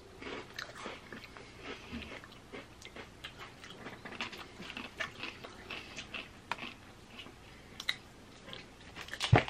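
A person chewing a mouthful of wavy potato chips, with many small irregular crunches. There is a single sharp click near the end.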